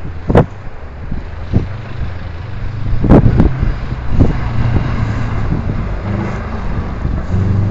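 Car engine running with a steady low hum, under wind buffeting the microphone. Several sharp knocks cut through, the loudest about half a second in and a cluster about three seconds in.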